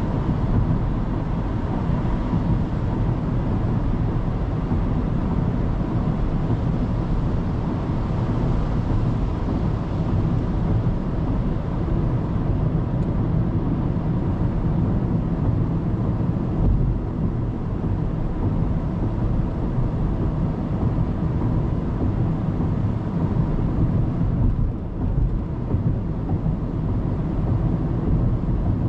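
Steady road noise of a car driving at expressway speed, heard from inside the car: a continuous low rumble of tyres and engine with a faint steady hum.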